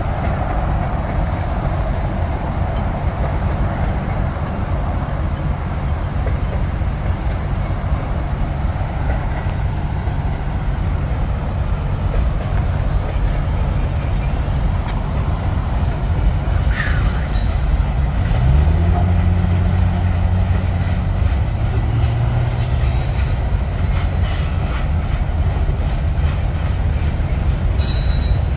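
Freight train cars rolling slowly across a railroad bridge: a steady low rumble of wheels on rail. About two-thirds of the way through, a low engine note rises in pitch and holds for a few seconds.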